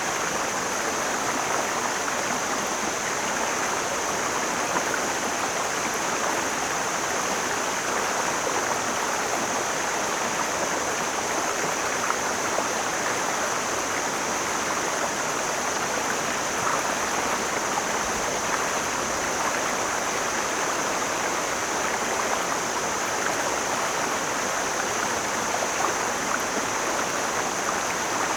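Mountain stream flowing: a steady rushing of water, with a thin, even high hiss above it.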